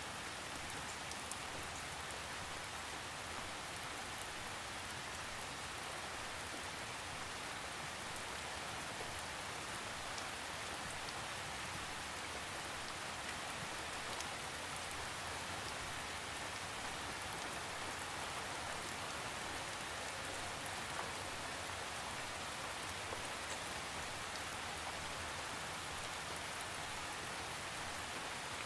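Steady rain falling, an even hiss with fine scattered drop ticks on a surface, without thunder.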